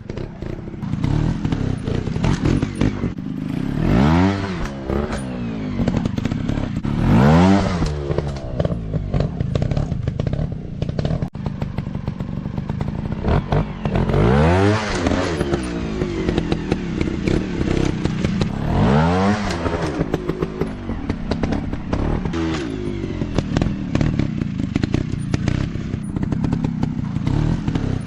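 Off-road dirt bike engine revving up and back down in repeated bursts, about four big rises in pitch, with a steady run of clatter and knocks between them.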